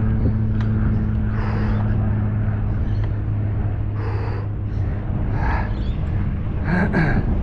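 Road and wind noise on a moving bicycle's microphone, with a steady engine hum from passing traffic that fades out about halfway through.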